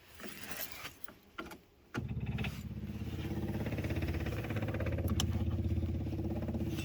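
Birkin Seven's engine catching about two seconds in after a few small clicks and clatter, then idling with a rapid, even firing pulse.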